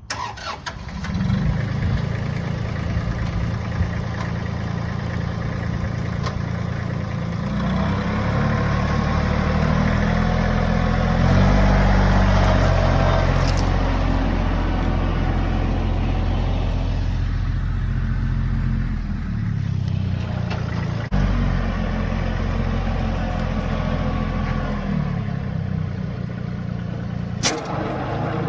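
Compact 25-horsepower tractor engine running hard to drive a 61-inch flail mower through thick brush, with a rushing, chopping noise from the mower over the engine. The engine comes in at the start and revs up about eight seconds in. It eases off for a couple of seconds near the middle, then pulls back up.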